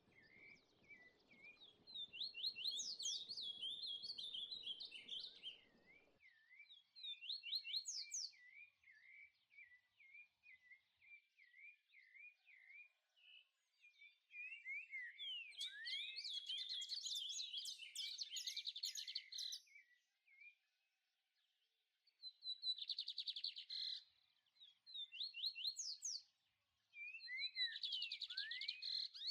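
Songbirds chirping and trilling in quick, high repeated notes, in busy runs broken by short pauses. A faint low hum under the first few seconds stops abruptly.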